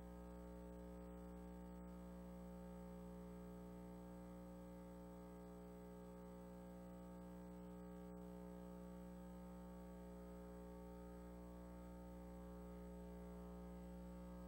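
Near silence with a steady electrical hum and no other sound.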